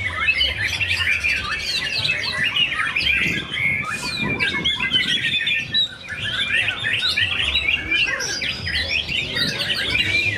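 White-rumped shamas (murai batu) singing, a dense, overlapping run of whistles and quick trills with a brief lull about six seconds in.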